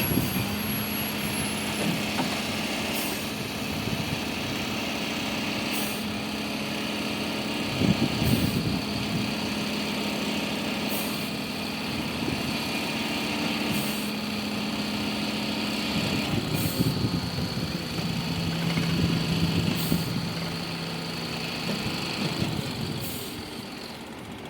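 Heavy diesel machinery engine running steadily, swelling in loudness now and then, with its note dropping lower for a few seconds near the end. Faint sharp ticks recur every two to three seconds.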